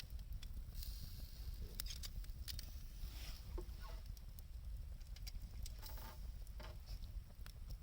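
Wood fire crackling and popping with irregular sharp snaps, over a low steady rumble, with a couple of brief whistling hisses from the burning wood about halfway through and again near the end.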